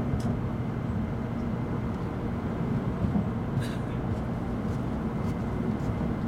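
N700 series Shinkansen heard from inside the passenger car while running: a steady low rumble of the train in motion, with a faint light click about three and a half seconds in.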